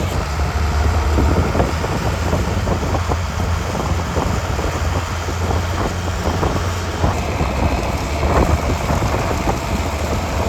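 International 5288 tractor's diesel engine running steadily, a constant low drone with rough, crackly noise over it.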